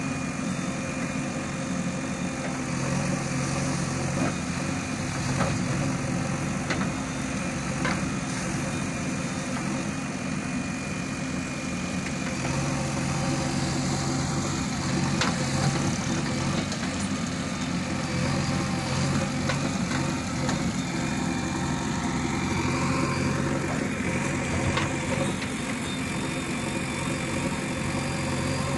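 Diesel engines of a JCB 3DX backhoe loader and the tractors it is loading run steadily. Short clicks and knocks are scattered throughout, and a whine rises in pitch about two-thirds of the way through.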